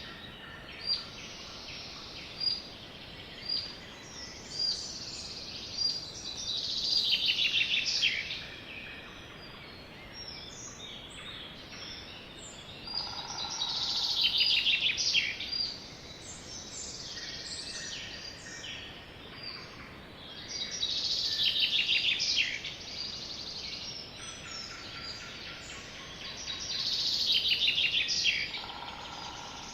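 A songbird repeating a short, fast trilled song phrase that falls in pitch, about every seven seconds, with single high chirps in between, over a steady background hiss.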